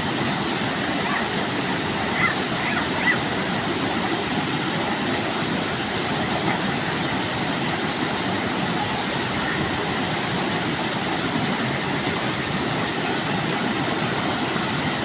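Steady rush of a waterfall, with two brief louder sounds about two and three seconds in.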